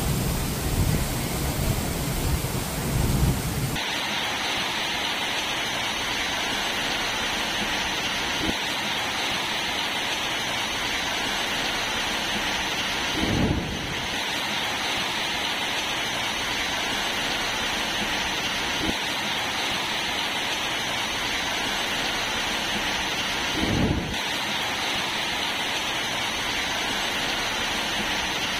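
Heavy rain pouring steadily, with a heavier low rumble in the first few seconds. The sound changes abruptly about four seconds in and briefly swells twice later.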